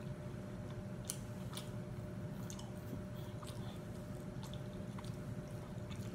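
A person chewing a mouthful of soft corn tamale masa, with small wet mouth clicks scattered throughout over a faint steady hum.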